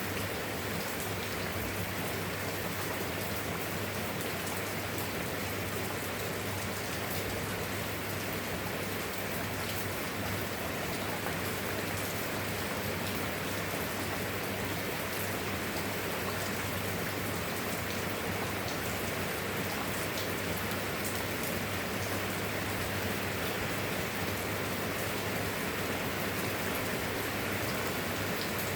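Steady rain falling, with many small drop ticks throughout and a steady low hum underneath.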